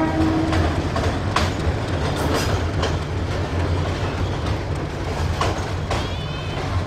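Passenger coaches of a diesel-hauled train rolling across a steel girder bridge: a steady low rumble with irregular sharp clacks of the wheels over the rail joints. The last note of the locomotive's horn cuts off about half a second in.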